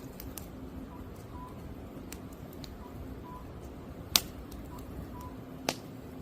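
Wood fire crackling with a steady hiss, scattered small ticks and two loud pops, the first about two-thirds of the way in and the second near the end. A faint cuckoo's two-note call repeats about once a second in the background.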